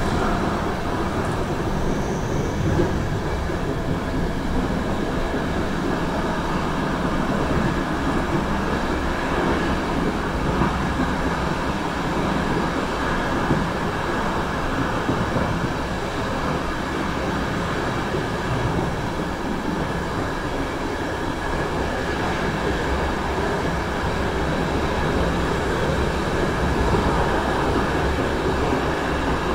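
Passenger train running steadily on the rails, heard from its rear door: a continuous rumble of wheels on track. It carries on into a stone-lined tunnel partway through.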